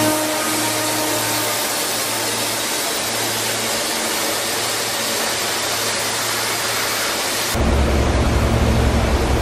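SEPTA electric multiple-unit commuter train rolling along the track: a steady rushing noise. About three-quarters of the way through it changes abruptly to a louder, deeper rumble.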